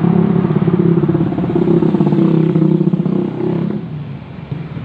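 A motor vehicle's engine running with a steady low hum, easing off somewhat near the end.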